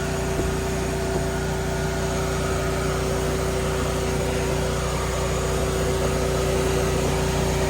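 Steady, unchanging hum of a running motor with a constant whine.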